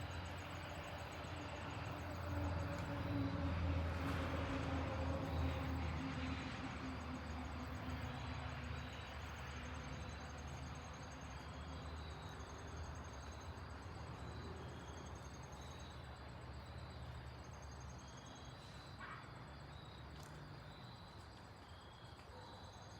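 Airbus A320-232 jet airliner passing overhead, its IAE V2500 turbofan engines making a low rumble. The rumble swells to its loudest about four seconds in, then slowly fades as the engine tone drifts down in pitch.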